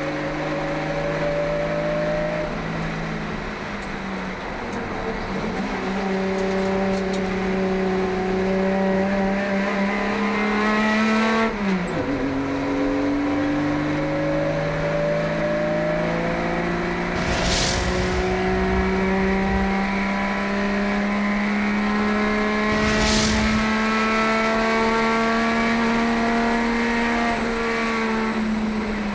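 Onboard sound of a 1971 Holden Kingswood HQ race car's engine at full throttle. Its pitch climbs steadily, drops sharply once at a gear change, then climbs again down the straight and eases off near the end. There are two brief whooshes along the way.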